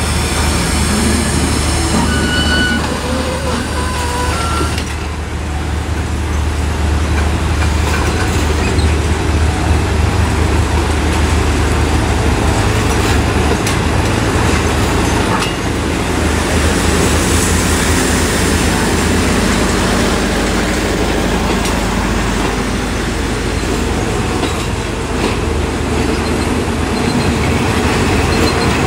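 State Railway of Thailand passenger carriages rolling past close by, rumbling on the rails with a few short wheel squeals in the first seconds. Then a steady rumble, with a train approaching.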